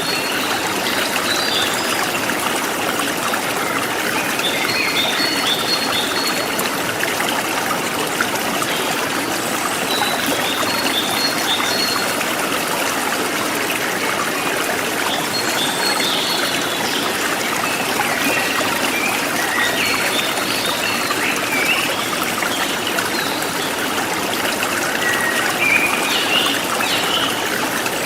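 Stream water flowing steadily, with birds chirping in short phrases of high notes that come back roughly every five seconds.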